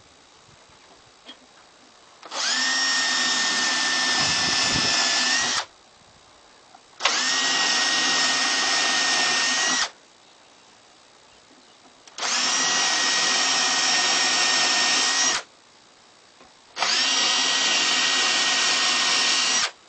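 Power drill boring four screw pilot holes into dry, cracked wood, one after another. Each hole is about three seconds of steady running at an even pitch, with short pauses between. The holes keep the wood from splitting when the screws go in.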